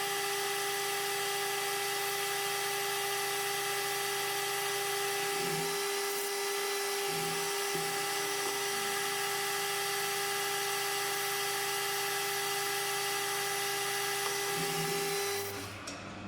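Benchtop mill-drill spindle running at a steady pitch, with a constant whine, while a homemade high-speed-steel boring bar takes light cuts to open a bore slightly oversize. The machine winds down and stops near the end.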